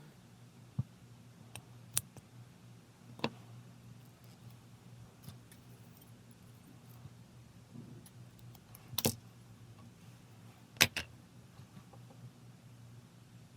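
Small metal pieces clinking and jingling in a handful of separate sharp clicks, the loudest two about nine and eleven seconds in, over a faint steady low hum.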